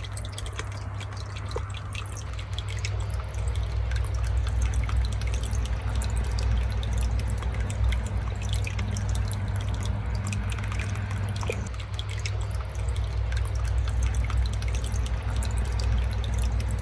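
Water dripping and trickling through a newly fitted rain gutter and downspout, with many small drips ticking over a steady low rumble.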